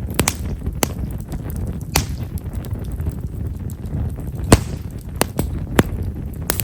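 Himeshara (Japanese stewartia) firewood burning in a bonfire, giving the fine, light crackle this wood is known for. About nine scattered sharp pops, the loudest a little past halfway, sound over a steady low rumble.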